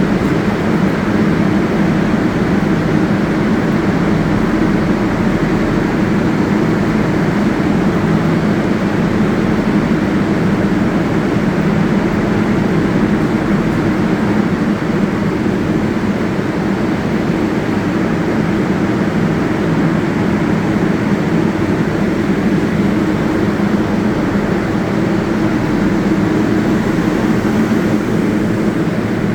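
New York City subway train on the 7 line at the terminal station, a loud steady hum with low droning tones that holds unchanged throughout.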